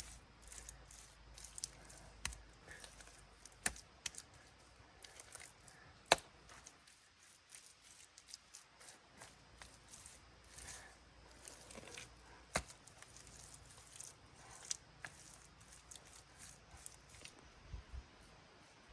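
Irregular small snips, clicks and rustles, like close-up hand work cutting or handling material, with a few sharper clicks, the loudest about six seconds in.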